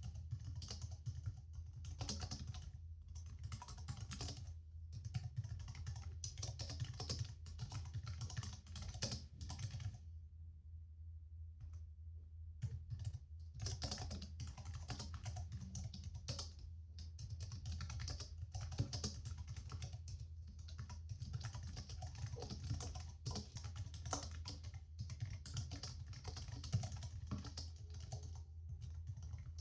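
Typing on a laptop keyboard: a dense, rapid run of key clicks that stops for about three seconds around a third of the way in, then resumes, over a steady low hum.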